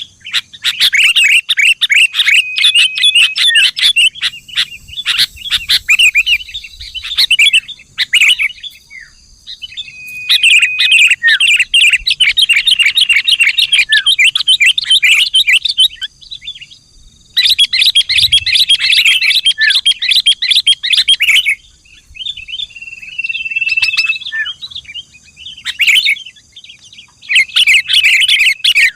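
Sooty-headed bulbul calling in bouts of rapid, bubbling chattering notes a few seconds long, with short level whistles mixed in and brief pauses between bouts. It is a lure recording meant to set other bulbuls singing.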